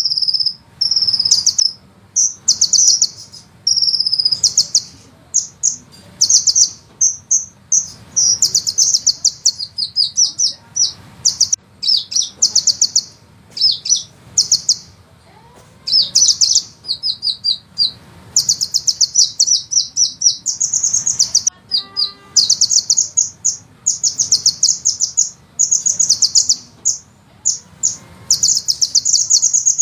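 Sunbird singing in high-pitched, very fast rolling trills and rapid chattering phrases, nearly continuous with brief pauses.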